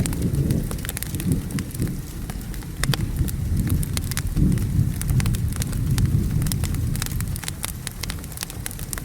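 Wood fire crackling, with sharp pops scattered all through, over a low rumble of thunder that swells and fades and a steady hiss of rain.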